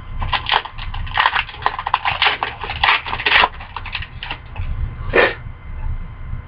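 Hockey trading cards and their pack wrapper being handled, with a quick run of crinkling, clicking strokes for about four seconds and one more a second later. A low steady hum runs underneath.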